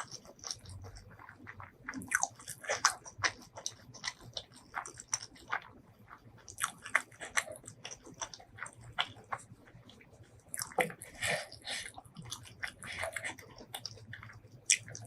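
Close-miked eating: bites and chewing with crisp crunching, in irregular clusters of sharp crackles, the loudest run of them about two-thirds of the way through.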